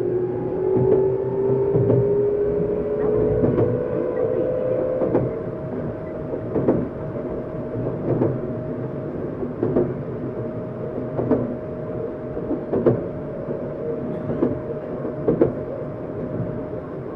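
Tokyu 7700 series electric motor car running on the line with its inverter-driven traction motors whining. The whine rises in pitch over the first few seconds as the train gathers speed, then holds a steady tone, while the wheels clack over rail joints about every one and a half seconds.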